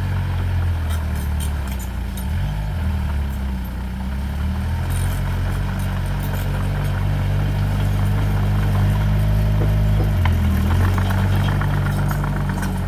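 Diesel engine of heavy earthmoving equipment (bulldozer or dump truck) running steadily, its note dipping briefly about two and a half seconds in and shifting again around ten seconds in as the load changes.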